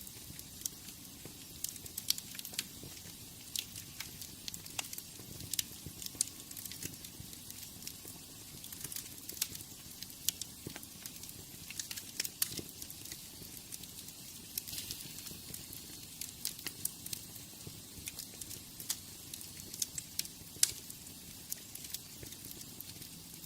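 Wood fire crackling in a fireplace: irregular sharp pops and snaps over a steady soft hiss of the flames.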